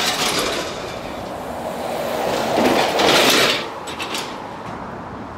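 Road traffic passing close by: the rush of one vehicle fades, then another swells past, loudest about three seconds in, with no distinct engine note.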